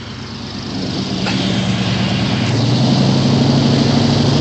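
Chevy 350 small-block V8 running through Magnaflow glasspack mufflers, its exhaust growing louder over the first second or two and then holding at a steady pitch.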